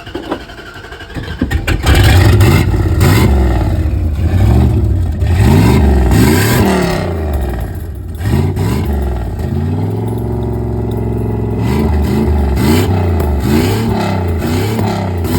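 Dodge pickup truck engine, freshly fitted with a turbocharger, on its first run with the turbo. It comes in loud about two seconds in and is revved in repeated blips, each rising and falling in pitch, then settles to a steady idle for a couple of seconds before more blips near the end.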